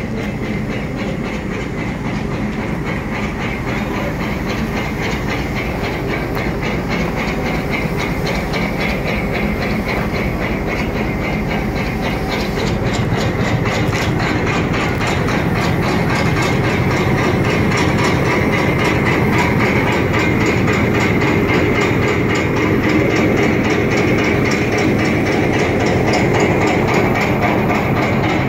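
Train running close by: a steady, loud mechanical rumble with hiss, getting a little louder about halfway through.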